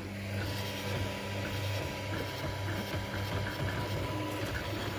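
3D printer laying down honeycomb infill: its stepper motors whir in short tones that change pitch every fraction of a second, over a steady low hum.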